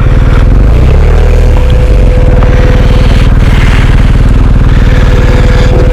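Motorcycle engine running steadily under load at close range, its firing pulses dense and even, with a faint steady whine above it from about a second in.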